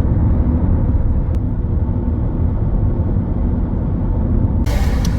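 Steady low rumble of a car driving along a road, engine and tyre noise. A hiss joins in near the end.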